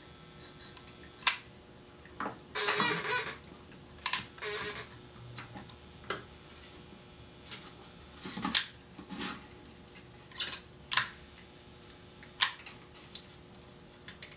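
Small metal tools and parts handled on a workbench during capacitor replacement: scattered sharp clicks and short scraping clatters.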